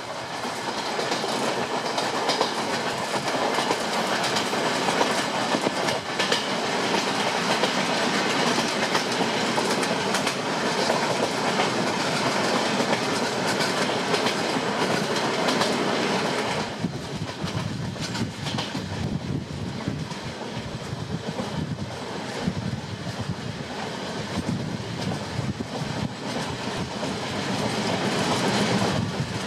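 Passenger train running on rails, with a steady rush of wheel and track noise and the clickety-clack of wheels over rail joints. About seventeen seconds in, the sound turns quieter and duller.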